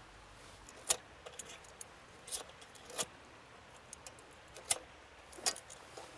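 Sharp clicks and clinks of small hard objects being handled: five louder knocks spaced about a second apart, with lighter ticks in between.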